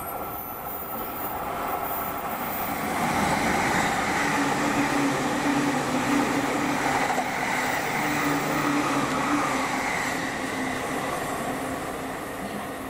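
JR electric train passing: the rumble of the train and a steady electric motor hum build over about four seconds, hold, then fade away toward the end.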